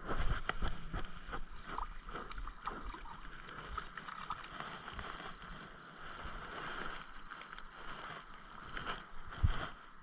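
Water splashing and sloshing in many quick, uneven splashes and knocks, loudest right at the start and again near the end.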